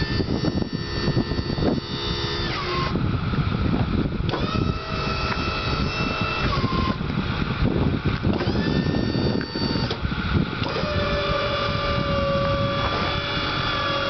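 Electric-hydraulic pump of a truck-mounted back blade whining in separate runs of a few seconds each, its pitch rising as it spins up and falling as it stops, over a truck engine running.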